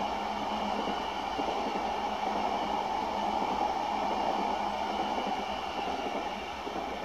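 Keihin-Tohoku Line electric commuter train running past: a steady rolling rumble of its wheels on the rails, fading near the end as the last car moves away.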